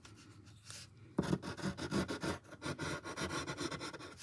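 Short, quick, scratchy drawing strokes sketching fluffy fur, starting faintly and becoming a dense run of strokes from about a second in.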